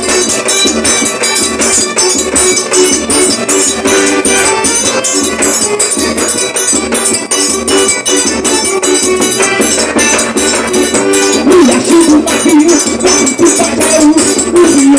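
Forró trio playing live, an instrumental passage: accordion melody over a fast, even beat of triangle and zabumba drum.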